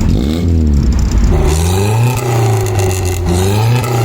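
Classic four-cylinder sports car engine accelerating hard from a drag-race start. The revs climb, drop at a gear change about a second in, climb again, and drop at another change near the end.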